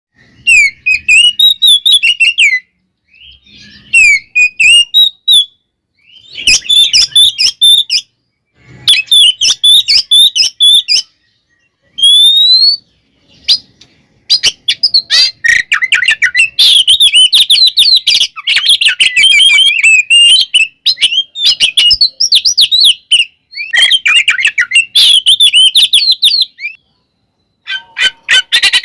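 Oriental magpie-robin (kacer) singing loudly in rapid, varied whistled phrases: short bursts with pauses at first, then a long unbroken run of song through most of the second half. It is the full, combative 'ngeplong/tarung' song that keepers play to rouse other males.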